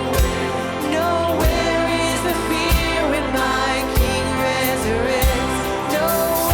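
Live contemporary worship band playing with a held sung melody over sustained chords, and a heavy drum hit about every second and a quarter.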